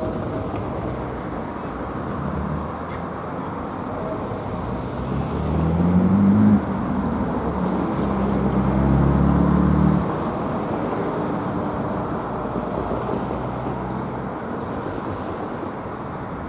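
A train rumbling steadily past on the rails. A low engine or motor hum climbs in pitch about five seconds in, holds, then drops away about ten seconds in.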